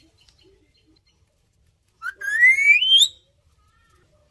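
A pet parrot gives a single whistle-like call about two seconds in, rising steadily in pitch for about a second.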